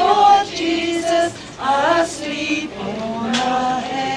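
A group of voices singing a Christmas carol, holding long sung notes with a short breath about a second and a half in.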